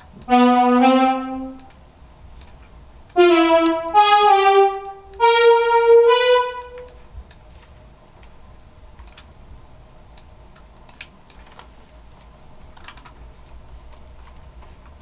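A brass-like software synthesizer patch from the Xpand!2 VST plugin, played as a run of about seven held notes while chords are being worked out. After about seven seconds the notes stop and only faint scattered clicks remain.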